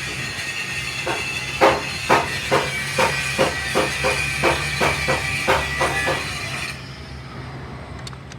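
About a dozen hammer blows on metal at roughly two a second, slightly uneven, over background music that cuts off near the end.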